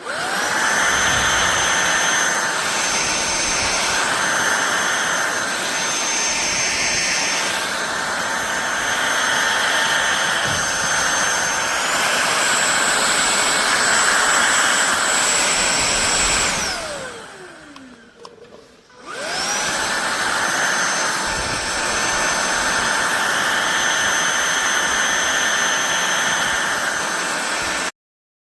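Fieety cordless stick vacuum cleaner's motor starting with a rising whine and running with a steady high whistle over its suction rush, stepping up in pitch about twelve seconds in. It then spins down with a falling whine and stops. About two seconds later it starts again with a rising whine and runs until it cuts off abruptly near the end.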